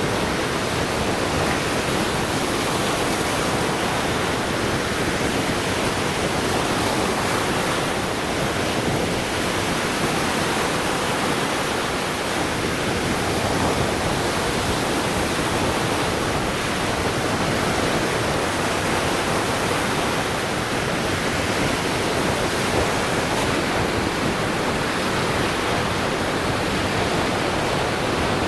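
Lake Michigan surf washing onto the beach: a steady, even rush of breaking waves with no single wave standing out.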